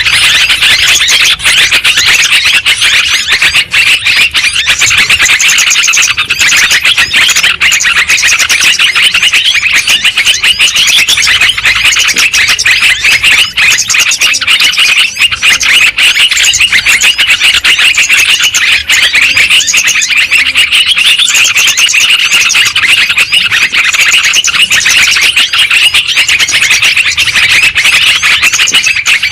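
Yellow-vented bulbuls (trucukan) in a dense, unbroken chorus of rapid chattering calls and song, the kind of recording played as a lure to draw the birds in and as a tutor for caged birds.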